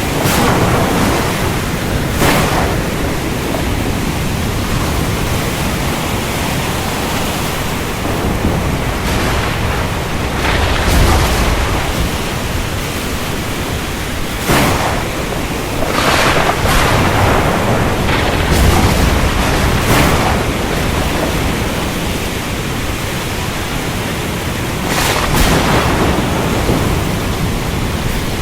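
Steady heavy rain with thunder: several sharp cracks and low rolling rumbles over the continuous rain hiss.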